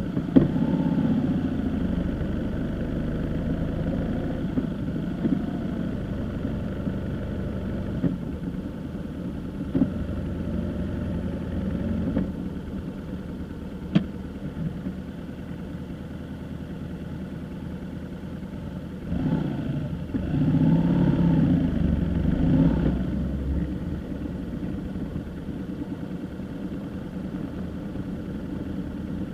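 A vehicle engine running on the move, with steady road drone. Around two-thirds of the way through it gets louder and its pitch rises and falls as it accelerates. There is a single sharp click about halfway.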